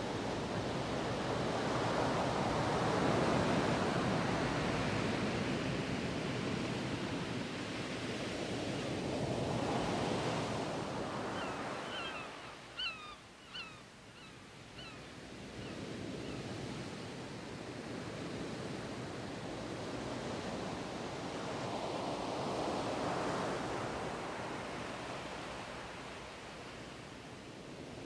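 Sea waves washing in and drawing back, the surf swelling and fading in slow surges about ten seconds apart. A few short high chirps come through around the middle, during a lull in the surf.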